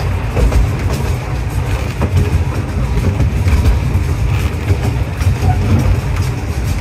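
Miniature train passenger car riding along the track, heard from on board: a steady low rumble with scattered wheel clicks.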